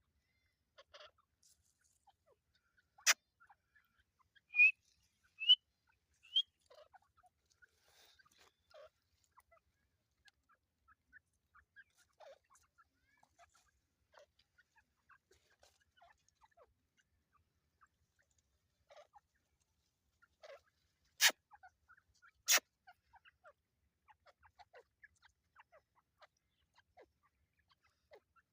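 Teetar (francolin) giving three short rising calls in quick succession, with faint scattered chirps around them. Three sharp clicks are loud, one before the calls and two close together near the end.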